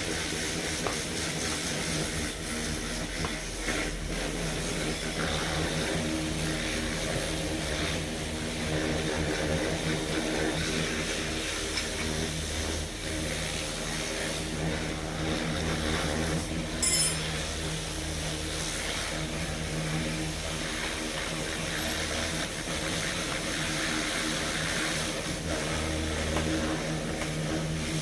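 A steady engine-like drone, with one sharp metallic clank about seventeen seconds in.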